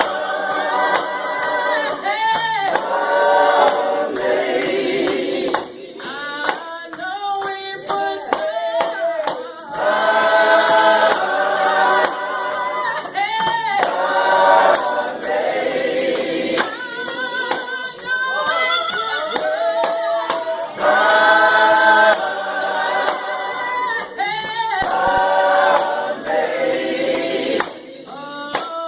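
A gospel vocal group singing with a tambourine keeping time.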